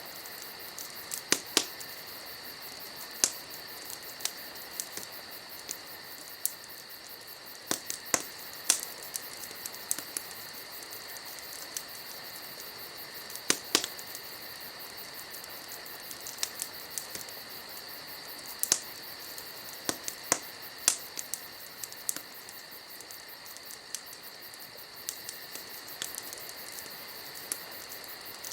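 Wood fire crackling, with sharp irregular pops every second or two, the loudest about a second and a half in, around eight to nine seconds and near thirteen and a half seconds. Behind it runs a steady high chirring of insects.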